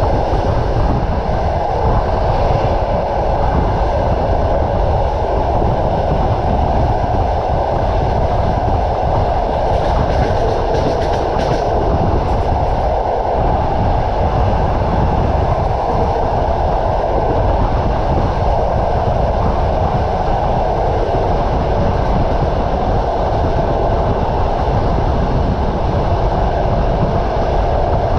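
Passenger train running along the line: a steady rumble and clatter of the wheels on the rails.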